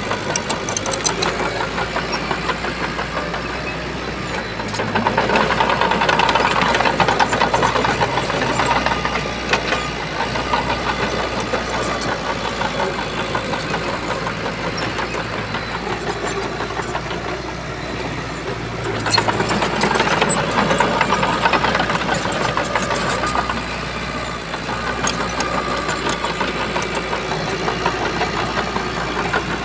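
Shantui bulldozer's diesel engine running, swelling louder twice, about five seconds in and again about nineteen seconds in, as it takes load, with scattered clanks.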